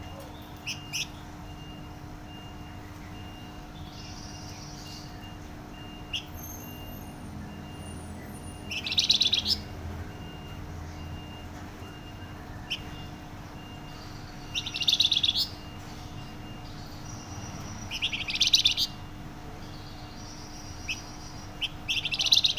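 A flamboyan songbird singing: four loud, fast trilled phrases of under a second each, several seconds apart, with short single chirps between them. A faint, evenly repeated high beep runs underneath.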